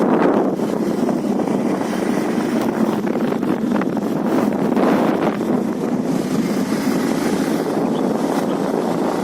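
Motorcycle on the move, its engine and road noise running steadily under wind rushing over the microphone.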